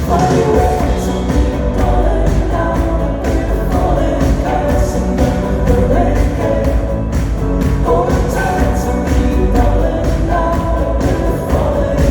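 A band playing live with a lead singer, the full band at a loud, steady level throughout.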